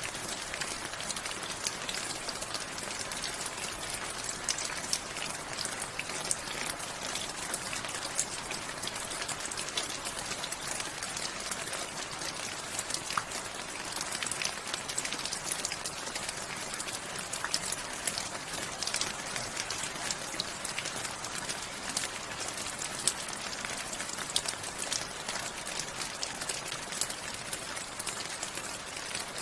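Steady rain falling, a dense patter of many individual drops hitting a surface.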